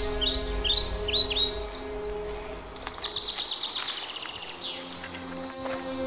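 Birds chirping in quick repeated calls over soft held music chords, with a falling run of chirps about three seconds in.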